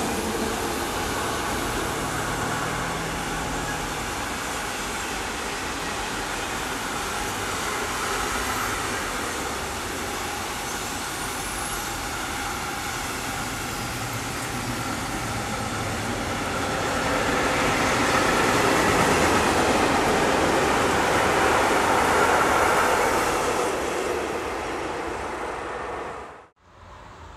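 Freight wagons carrying road semitrailers rolling past, a steady noise of wheels on the rails. It swells for a few seconds about two-thirds through, then eases as the end of the train passes, and cuts off suddenly near the end.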